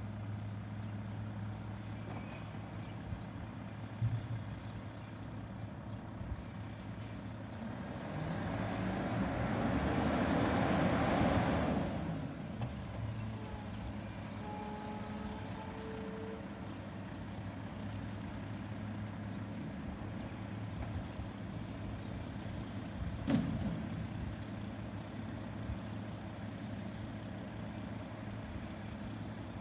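Garbage truck's diesel engine running steadily at a low hum. About eight seconds in, a rush of noise builds for some four seconds and drops off, and a short sharp knock comes later.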